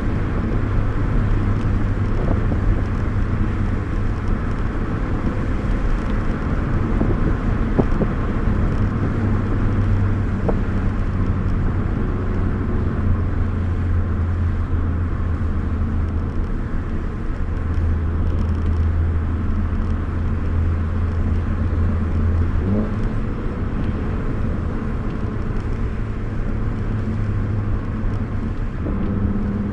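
Car engine and tyre noise heard from inside the cabin while driving, with the engine note holding steady and shifting in pitch a few times. Near the end the engine note jumps up sharply as the revs rise.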